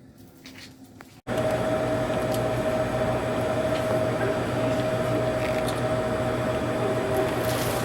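Train running: a loud steady rumble with a constant hum, starting abruptly about a second in.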